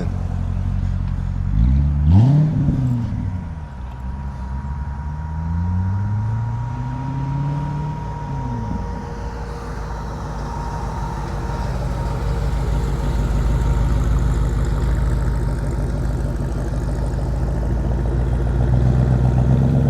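Car engines running as cars drive past slowly. One is blipped in a quick rev about two seconds in, and a slower rev rises and falls a few seconds later. After that the engine sound holds steady and grows louder toward the end.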